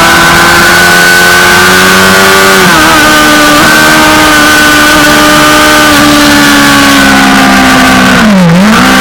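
Suzuki GSX-R600's inline-four engine running hard at high revs, with wind rushing past. The pitch drops sharply once about three seconds in at a gearshift, then slowly sags, and near the end dips briefly and comes back up.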